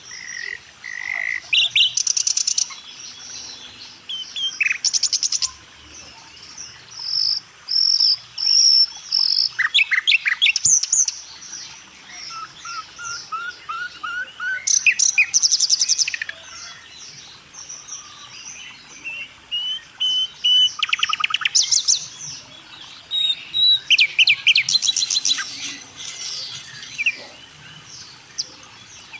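Several birds chirping and singing, with overlapping whistled calls and rapid trills recurring every few seconds.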